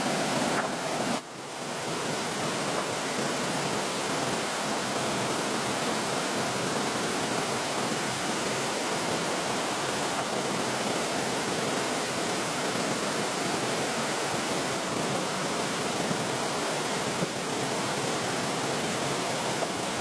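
Steady rushing water noise with no clear pitch or rhythm, briefly dropping in level about a second in.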